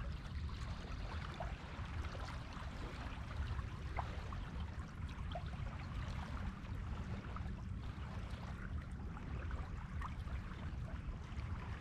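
Sea water washing on a beach: a steady wash with many small trickling pops and ticks, over a constant low rumble.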